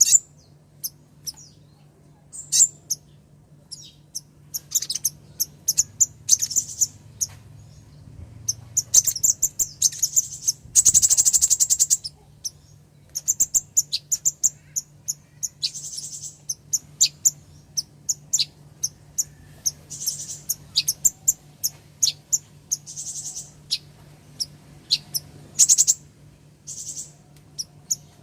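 Female brown-throated sunbird (kolibri ninja) calling: rapid runs of high, sharp chirps and ticks, with a dense buzzy trill about 11 seconds in. A faint steady low hum runs underneath.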